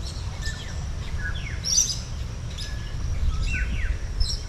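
Birds calling: a series of short high chirps and quick falling whistles, several a second apart, over a steady low rumble.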